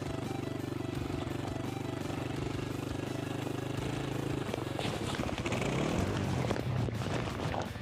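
Suzuki DR650's single-cylinder engine running steadily. About four and a half seconds in, a louder, rougher noise takes over as the bike battles the snow patch.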